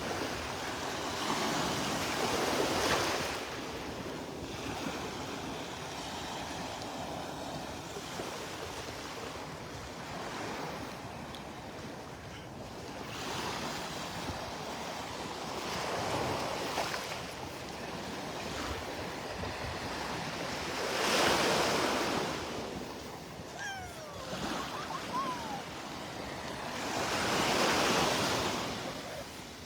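Small Gulf of Mexico waves breaking and washing up the beach, the surf swelling louder every several seconds, over a steady wash of water.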